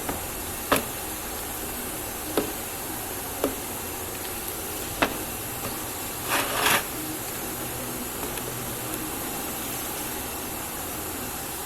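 Workshop handling sounds: four single sharp knocks spaced a second or two apart, then a short scraping rustle, over a steady background hiss.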